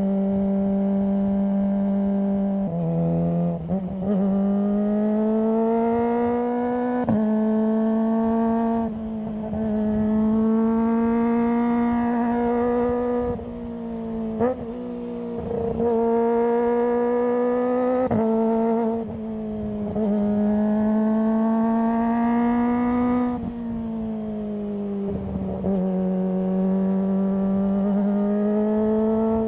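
Kawasaki ZX-25R's 249 cc inline-four running under way, its exhaust note rising in pitch as it pulls through the revs, then dropping back at each gear change or throttle lift, over and over. Brief sharp clicks come at some of the changes.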